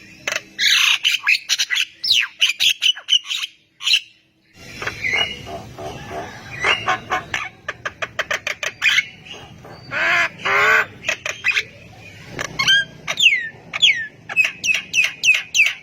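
Javan myna singing in a varied string of harsh squawks, clicks and whistled notes. A short pause comes about four seconds in. Later there are a few falling whistles and a quick run of repeated notes near the end.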